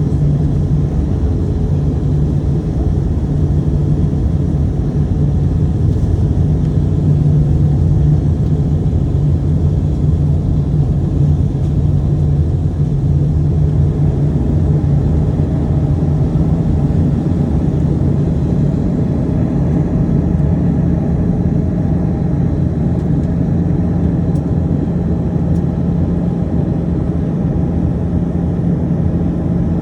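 Airbus A320 cabin noise during descent: a steady rush of airflow and engine drone, heard from inside the cabin, with a strong low hum that holds throughout.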